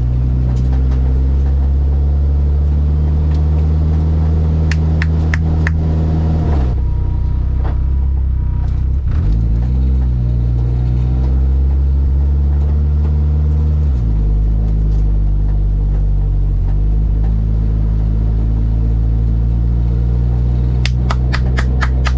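Drag car engine idling loudly with a steady low rumble, its pitch dipping and coming back up a few times. Short runs of sharp clicks come about five seconds in and again near the end.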